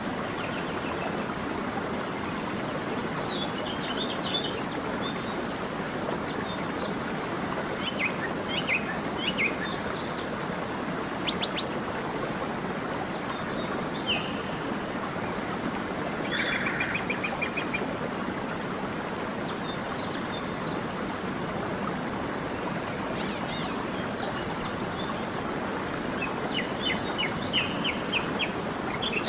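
Stream running steadily, with birds chirping over it in scattered short calls, a rapid trill about halfway through and a flurry of chirps near the end.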